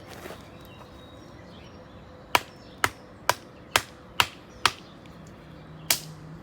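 A knife blade chopping into a wooden branch: six sharp strikes at a steady pace of about two a second, then a short pause and one more strike near the end.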